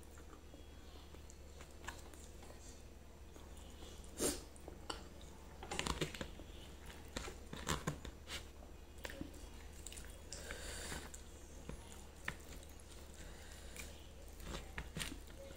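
Quiet close-up eating sounds of grilled chicken and rice eaten by hand: chewing with scattered soft smacks and clicks, the loudest about four, six and eight seconds in.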